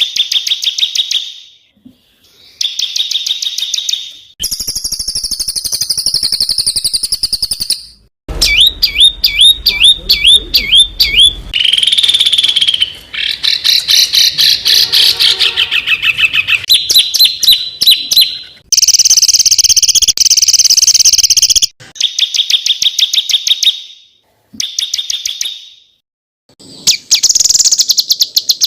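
A string of small songbirds' rapid, harsh repeated calls, each a fast stutter of high notes, spliced one after another with abrupt cuts and short gaps every few seconds. It is a masteran tutor track of rough 'tembakan' bursts, used to train songbirds.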